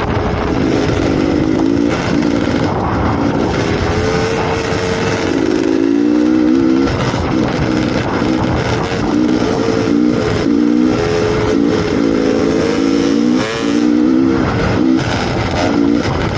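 Dirt bike engine running as it is ridden, its note rising and falling over and over as the throttle is opened and eased off, over a steady rushing noise.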